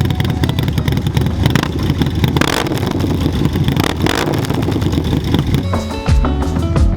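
Harley-Davidson Low Rider ST's 131 cubic-inch Milwaukee-Eight V-twin, with a Cycle-Rama 483 cam and SP Concept exhaust, running loud with a rapid, chopping exhaust pulse. Music comes in about six seconds in.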